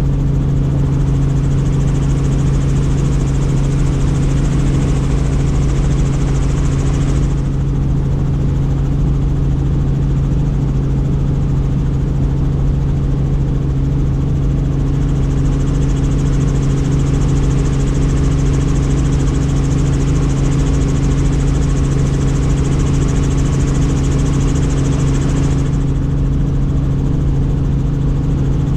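Helicopter in flight heard from on board: a loud, steady engine and rotor drone with a low hum. A higher hiss over it cuts out about a quarter of the way in, comes back about halfway, and cuts out again near the end.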